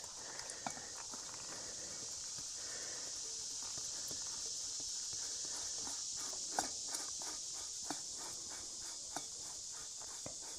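Light metallic clicks and knocks, about two or three a second through the second half, as the oil filter is unscrewed from a Massey Ferguson 50 tractor. A steady high hiss runs underneath.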